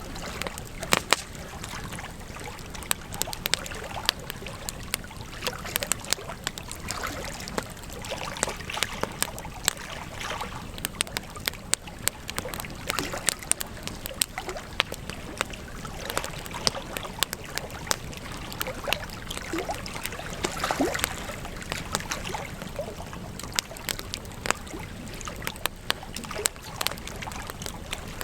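Campfire crackling: irregular sharp pops and snaps over a steady hiss of burning wood.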